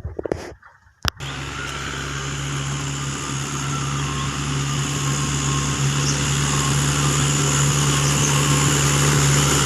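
Eicher 241 tractor's single-cylinder air-cooled diesel engine running steadily, growing slowly louder. It starts abruptly with a sharp click about a second in, after a few brief sounds.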